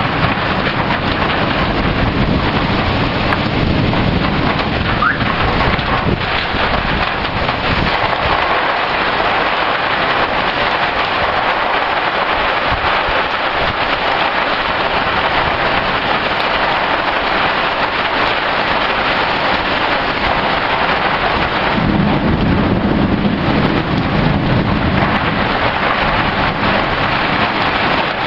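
Heavy thunderstorm rain pouring steadily, with a low rumble of thunder near the start and another about three-quarters of the way through.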